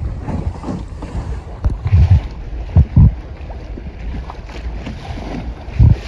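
Wind buffeting the microphone on a sailing dinghy under way, over a steady rush of water, with a few sudden loud low thumps about two, three and six seconds in.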